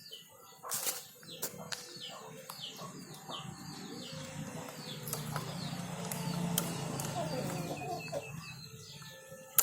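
Small bird chirping, a quick run of short high downward chirps about three a second, with a few sharp metallic clicks and a low hum that swells and fades in the middle.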